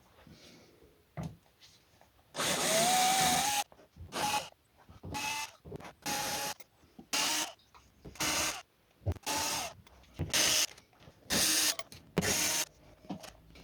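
Power drill-driver running in about ten short bursts, the first a little over a second long with its motor pitch rising, the rest under a second each: backing out the Torx screws that hold the plastic engine undertray.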